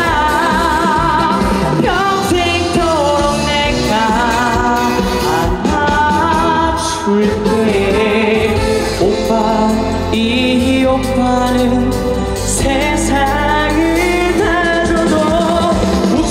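A singer performing a song live with vibrato over an amplified backing track.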